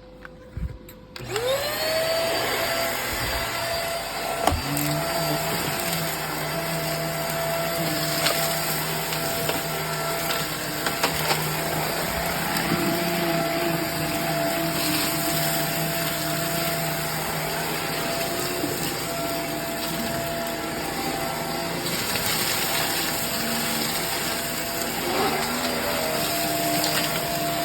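Hoover React cordless vacuum cleaner switching on, its motor spinning up with a rising whine about a second in, then running steadily with its brush roll, broken by a few sharp clicks.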